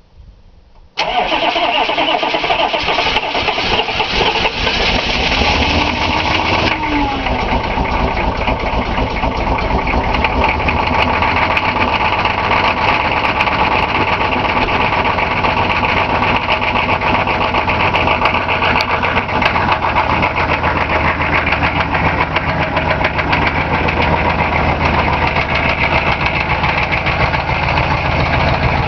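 A GMC K3500's 6.5L V8 turbo diesel, straight-piped into a stack, starting cold at 9 °F. It fires about a second in and settles into a loud, steady idle. The high hiss drops off after about six seconds.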